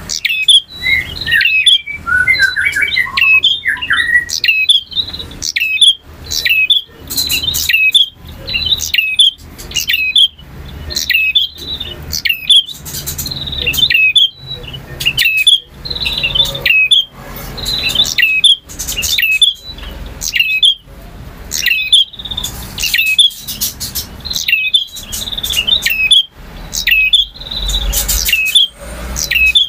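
Male prinia (prenjak) singing: loud, rapid, high-pitched chirping phrases repeated about once a second without a break.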